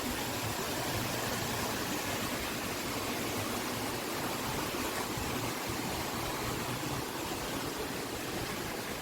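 Wind blowing, a steady rushing noise with a fluttering rumble where it buffets the microphone.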